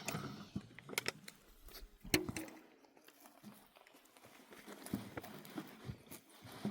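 Scattered light clicks and knocks, the sharpest about two seconds in, over a quiet background.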